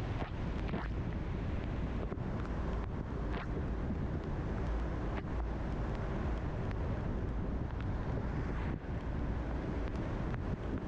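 Car driving on a wet road in the rain: steady tyre and road noise with a low rumble, and a few faint ticks scattered through.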